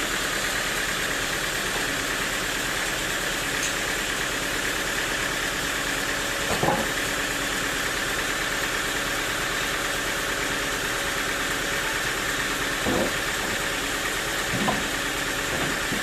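Sawmill machinery running steadily, a constant mechanical hum with a high steady tone over it, and a few short knocks.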